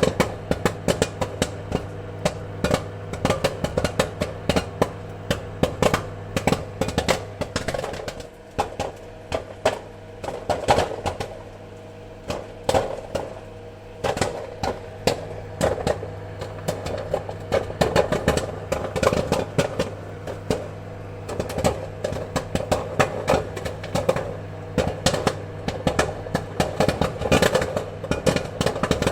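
Popcorn kernels popping in quick, irregular succession, many sharp pops a second with thinner stretches here and there, over a steady low hum.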